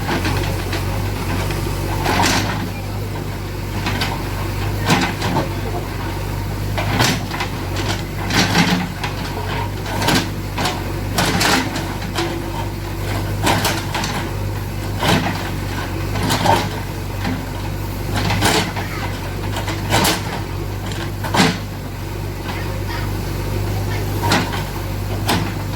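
JCB 3DX backhoe loader's diesel engine running steadily, with repeated irregular knocks and clanks every second or two.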